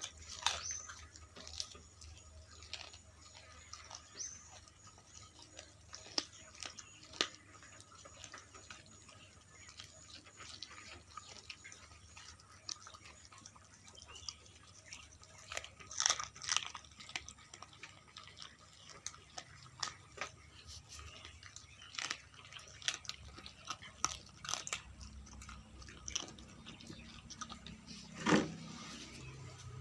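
Dog chewing and crunching through whole quail, a run of irregular sharp crunches with the loudest near the end.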